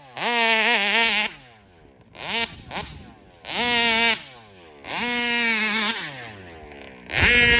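Taylor big-bore two-stroke engine in a large-scale RC car being revved hard four times. Each burst goes to a high, steady scream for about a second, then drops back toward idle with a falling pitch.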